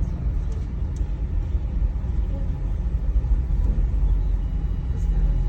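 Steady low rumble inside an aerial tramway cabin as it travels along its cables.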